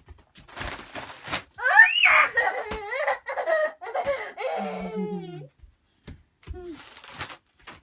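A small child laughing loudly in a long, high-pitched run of laughter from about a second and a half in until about five and a half seconds.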